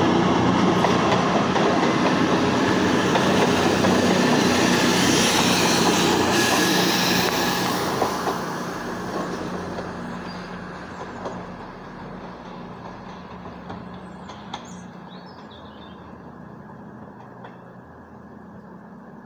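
CrossCountry Voyager diesel-electric multiple unit passing close on jointed track and pointwork, wheels rumbling and clattering with its underfloor diesel engines running. About eight seconds in it starts to fade steadily as the train runs away into the distance.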